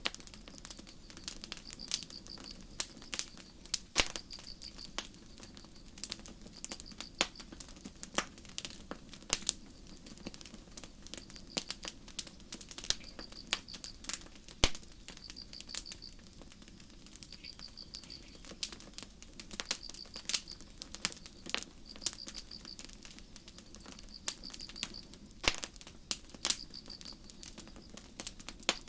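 Campfire crackling, with sharp wood pops at irregular intervals over a low steady hiss. A cricket chirps in short pulsed chirps, repeating about every second or two.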